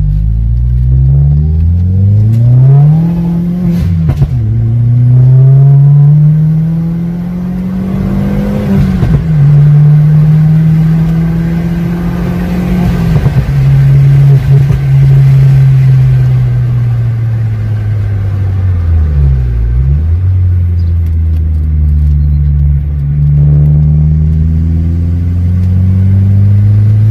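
VW Polo GTI's turbocharged 1.8-litre four-cylinder engine heard from inside the cabin, accelerating through the gears. Its pitch climbs and drops sharply at upshifts about four and nine seconds in, then holds and eases off while cruising. It dips and recovers quickly around twenty seconds in, and climbs again near the end.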